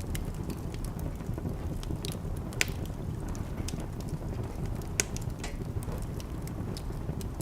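Wood fire burning in a fireplace: a steady low rush of flames with scattered sharp crackles and pops. The two loudest pops come about two and a half seconds in and at five seconds.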